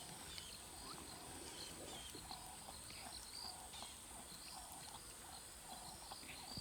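Faint outdoor wildlife ambience: a steady high-pitched insect drone, with birds calling over it in many short repeated notes.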